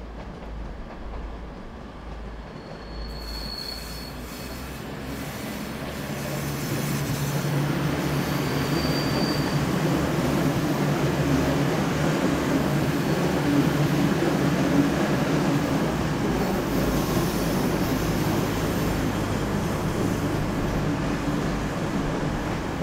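A train running past on the tracks, its noise building about six seconds in and then holding steady, with two short high-pitched squeals in the first few seconds.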